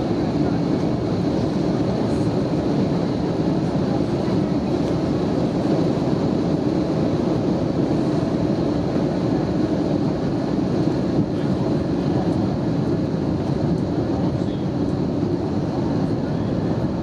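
Airbus A320neo cabin noise in flight: a steady rushing drone of airflow and turbofan engines, unchanging in level.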